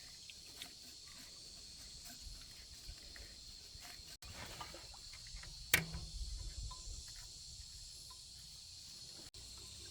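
Steady high-pitched insect drone in the background, with faint scattered clicks and one sharp click about six seconds in.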